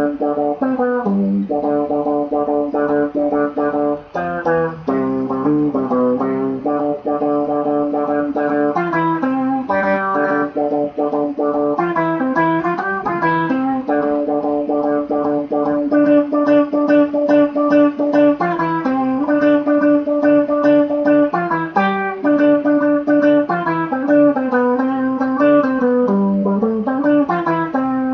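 Guitar played through an octave filter effect, holding notes that change pitch every second or two in a wandering melodic line.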